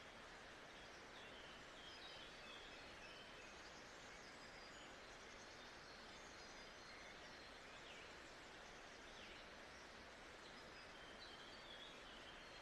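Faint nature-sounds ambience: a steady, even hiss with scattered short, distant bird chirps.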